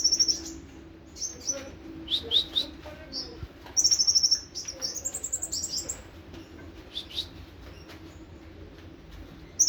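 Kolibri ninja sunbird singing its 'nembak' song: bursts of rapid, high-pitched trills and short chirps, busiest about four to six seconds in, with quieter scattered notes after.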